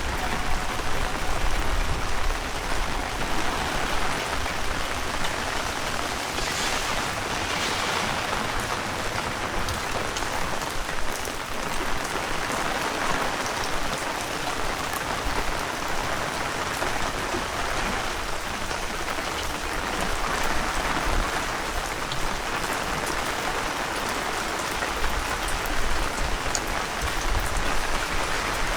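Heavy rain falling steadily, a dense even hiss, with gusts of strong wind rumbling on the microphone now and then.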